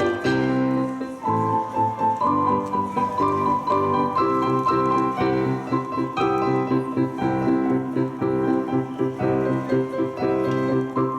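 Piano played four hands: a steady, rhythmic accompaniment in the low register under a melody in the middle.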